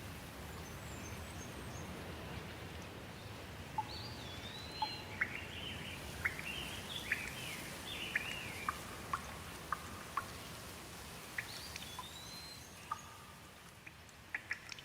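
Steady rain falling, with a bird calling over it in a run of short whistled chirps and glides through the middle, and a few sharp drips near the end as the rain eases slightly.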